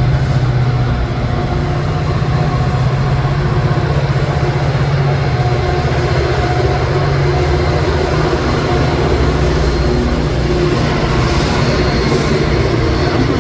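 Metra commuter train passing, its EMD F40PH diesel locomotive running with a steady low drone as it shoves the train of gallery cars along.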